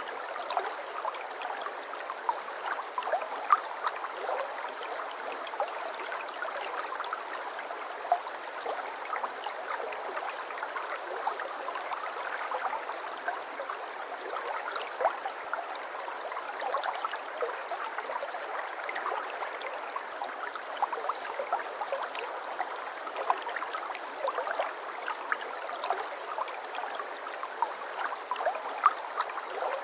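Shallow brook babbling over stones: a steady, even gurgle of running water, with small splashes and trickles throughout.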